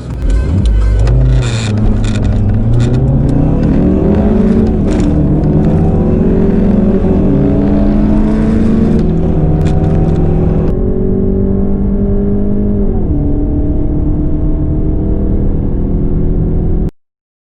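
Two four-cylinder car engines under full-throttle acceleration, an Audi A1 40 TFSI and a Honda Civic EJ9 1.4i, heard together. The engine pitch climbs and then drops back at each upshift several times, and the sound cuts off abruptly near the end.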